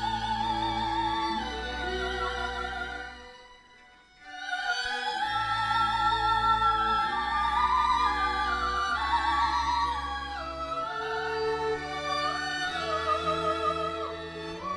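Female soprano soloist singing with a wide vibrato over sustained choral and instrumental accompaniment. The music fades into a brief pause about four seconds in, then resumes.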